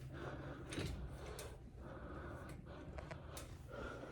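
A few faint clicks and knocks of a small object being handled and pushed into place, over a low steady hum.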